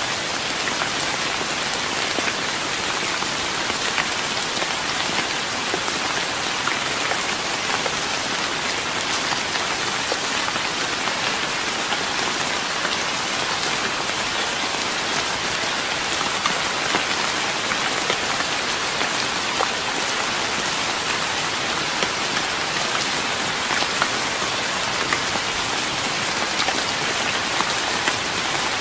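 Steady rain falling on a wooden deck, an even hiss with the patter of many small drops.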